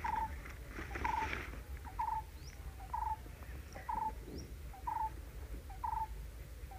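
A bird's short call repeated evenly about once a second, with a few faint higher chirps from other birds. A paper page rustles as it is turned about a second in.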